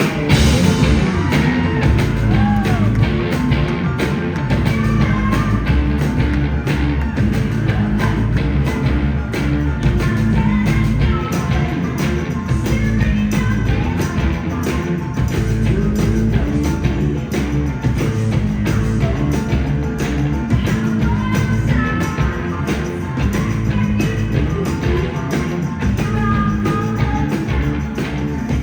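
Rock band playing live: a drum kit keeps a steady driving beat under bass and electric guitar, with singing.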